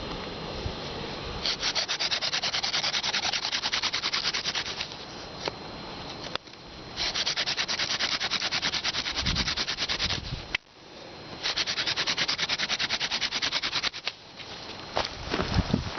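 Wooden hand-drill spindle spun between the palms against a hearth board, a dry rubbing friction noise in three bouts of about three seconds each with short pauses.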